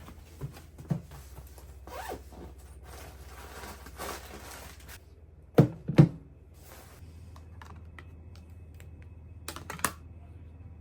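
Handling noises: rustling and scraping, with two sharp knocks about halfway through and another pair of clicks near the end.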